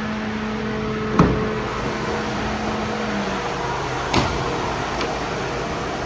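Ford Transit 2.0 EcoBlue diesel engine idling steadily, with a hum that drops away about three seconds in. Two sharp knocks come about a second in and about four seconds in.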